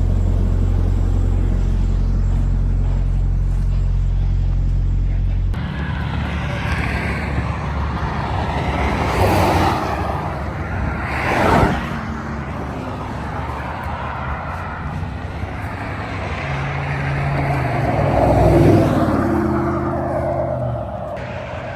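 A steady low hum for the first few seconds, then highway traffic passing close by: several vehicles going by one after another, the sharpest pass about halfway through.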